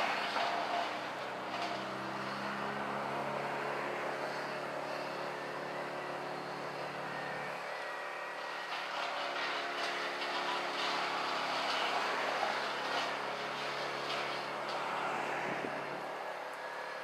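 An engine running steadily, with a broad rushing noise over its hum.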